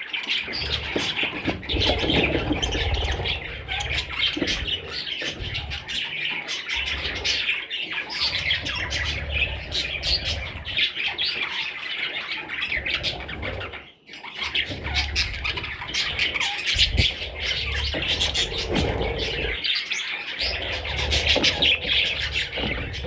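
A group of budgerigars chattering and squawking in a continuous, busy stream of short calls, with a break about halfway through. Bursts of low rumble come and go underneath.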